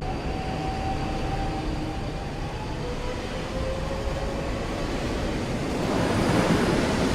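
Train running on the tracks: a steady rushing rumble of the carriages that swells louder near the end.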